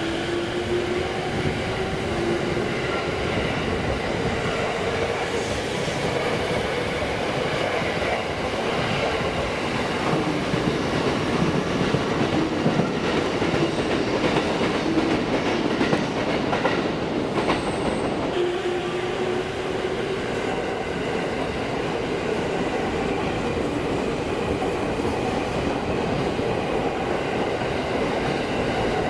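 Electric train running through the station with wheels clicking over the rail joints and a motor whine; a steady, continuous rumble that swells slightly midway.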